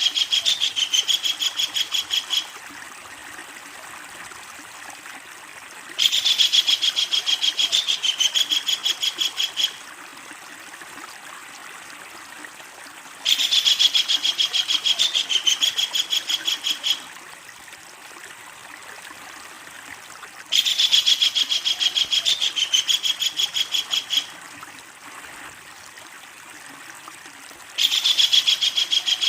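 Kingfisher giving its long, loud rattling call of rapid even notes, about ten a second, in bouts of three or four seconds that repeat about every seven seconds, as from a looped recording. A steady hiss runs between the calls.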